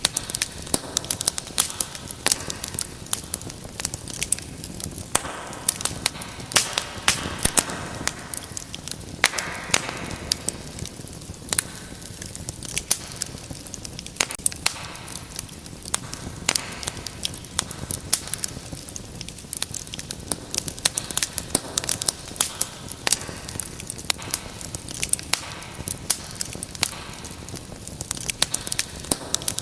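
Wood fire burning in a fireplace, crackling and popping steadily over a soft hiss of flame.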